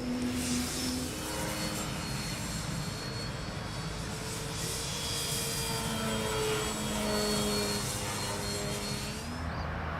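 Dynam Devil 3D electric RC biplane's 650kv brushless outrunner motor and propeller buzzing in flight over a hiss of air noise. The motor's pitch drifts up and down and fades in and out as the throttle is worked, with a faint high motor whine on top.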